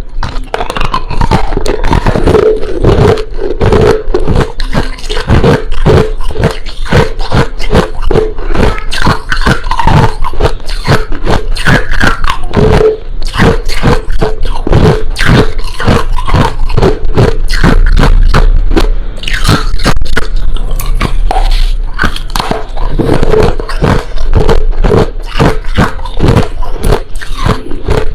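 Crushed ice being bitten and chewed close to the microphone: loud, rapid crunching with many sharp cracks following one another throughout.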